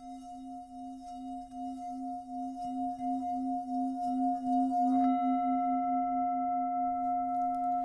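Singing bowl sounding a sustained, slowly pulsing hum of two main tones that grows louder. A higher overtone joins about five seconds in.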